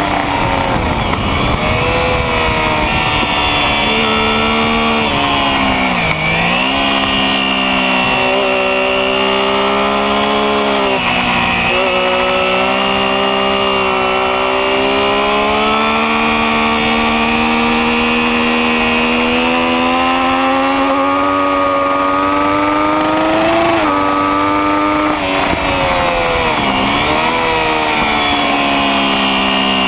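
Sport motorcycle engine running hard at high revs, its pitch climbing through long pulls and dipping sharply a few times as the rider backs off and downshifts for corners. A steady rushing noise runs underneath.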